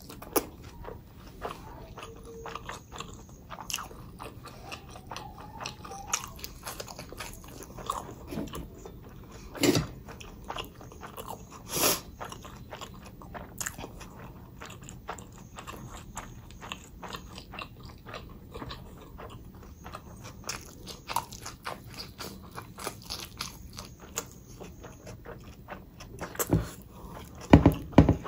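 Close-miked eating: a person biting and chewing food, with many small crunches and a few louder bites, one near the end.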